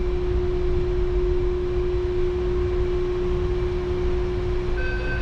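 Taipei Metro Brown Line rubber-tyred train running, a low rumble under a steady whine. Shortly before the end a higher tone with overtones comes in over it.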